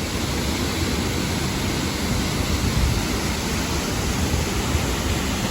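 Looking Glass Falls, a waterfall, pouring steadily into its plunge pool: a loud, even rush of falling water heard from its base.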